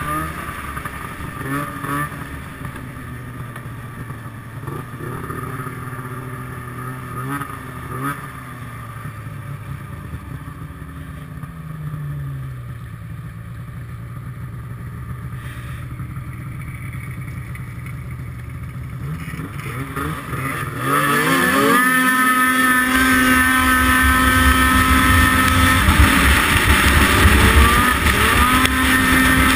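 Snowmobile engines running, their pitch rising and falling with the throttle. About 21 s in, a much louder engine revs up sharply and holds at high speed.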